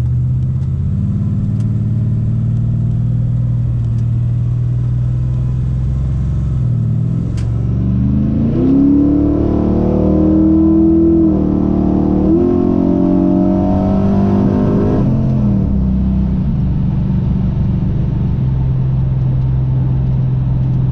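410-cubic-inch Magnum V8 stroker running through its new exhaust, steady at first. About eight seconds in it revs up under acceleration, dips briefly a few seconds later, climbs again, then falls back to a steady hum near the end.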